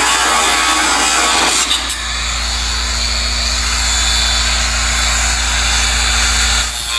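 Power saw cutting through car body sheet metal, running steadily; its sound changes about two seconds in and then carries on with a steady hum and a thin high whine.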